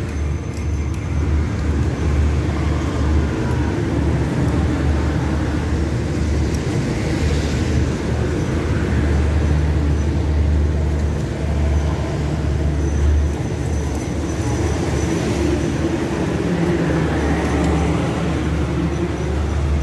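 Steady low rumble of a diesel-hauled passenger train at the platform, with a few faint rising and falling tones above it.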